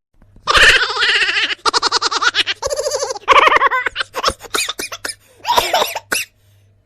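Human laughter in several bursts, some with a rapid pulsing 'ha-ha-ha' pattern.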